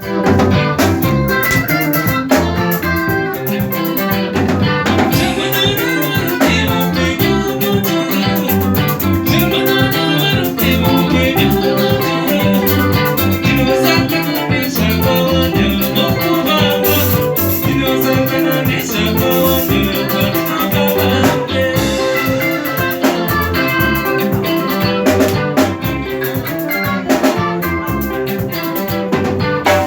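Live band music with a steady beat and percussion, played at a constant loud level.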